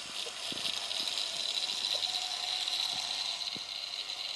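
Narrow-gauge model railbus running on 9 mm track: a steady high whir from its small motor and gearing, with a few light ticks from the wheels on the rails. It cuts off suddenly near the end.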